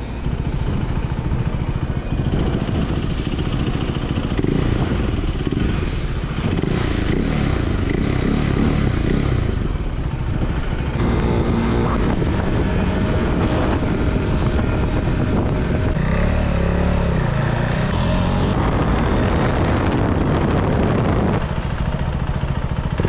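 Husqvarna Svartpilen 401's single-cylinder engine running on the move, its pitch rising and falling with throttle and gear changes.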